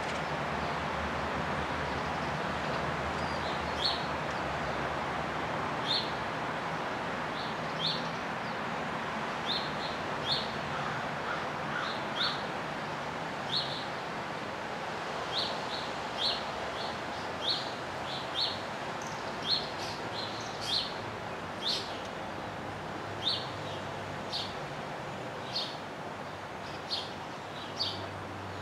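A bird giving short, high chirps, one every second or two at first and then more often, over a steady background hiss.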